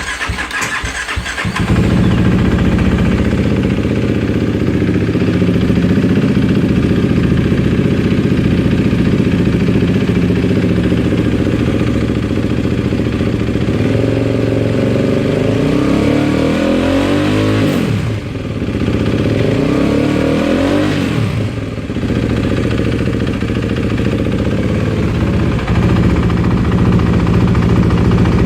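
KTM RC390's single-cylinder engine with a Yoshimura aftermarket exhaust, started on the starter and catching after about a second and a half, then idling steadily. Later it is revved twice, the pitch rising and falling back to idle each time, with the two revs a few seconds apart.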